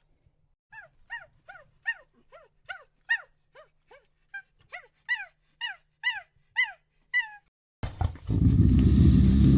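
An animal's short, high calls repeated about twice a second, each one falling in pitch, like a young dog's yelps. Near the end they give way abruptly to a loud, steady rumbling noise.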